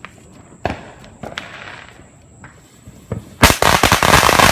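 A string of Black Cat firecrackers going off: a few single bangs, then from about three and a half seconds in a loud, rapid run of bangs.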